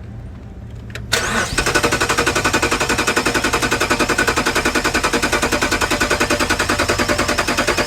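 A car's starter motor cranking the engine with fast, even pulses for about seven seconds without the engine catching, then cutting off abruptly.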